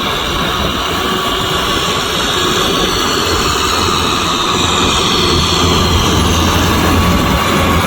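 Kubota M6040SU tractor's diesel engine running steadily under load, driving a rotavator, getting slightly louder in the second half.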